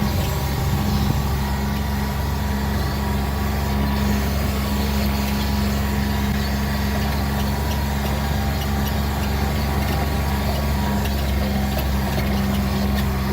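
Motor vehicle engine running steadily while riding across rough pasture, a constant low drone with road and wind noise.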